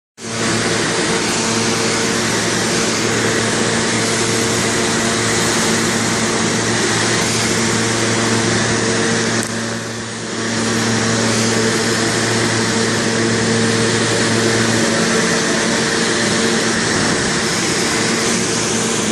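New York City Subway R160 train running, a loud steady rush of noise over a steady electrical hum. The noise dips briefly about halfway through, and the lowest hum drops out near the end.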